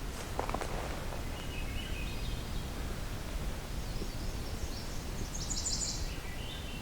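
Swainson's thrush singing its flute-like song, a run of short phrases spiralling upward in pitch, with another phrase beginning near the end. A couple of rustles come in the first second over a steady low outdoor rumble.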